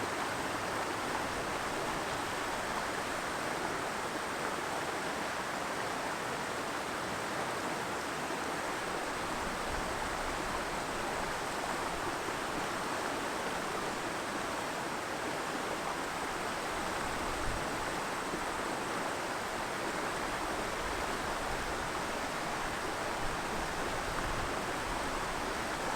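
Stream water rushing steadily over rocks, an even, unbroken flow.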